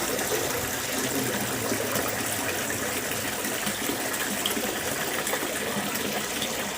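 Water fountain running, its water splashing and gushing steadily.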